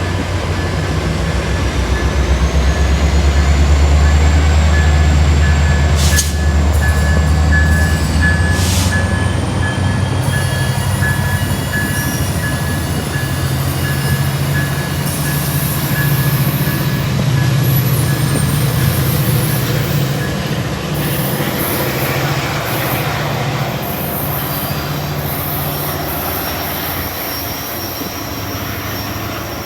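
Tri-Rail commuter train going by: a diesel locomotive's engine rumble, loudest a few seconds in, then the cars rolling on the rails, easing off toward the end.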